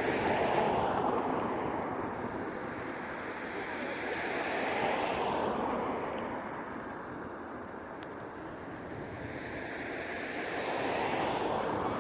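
Aircraft engine noise swelling and fading as aircraft pass overhead, three times: near the start, about five seconds in and near the end.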